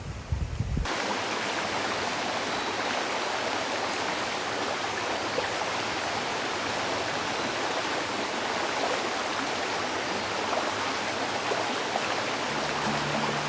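Steady rush of flowing creek water, starting abruptly about a second in.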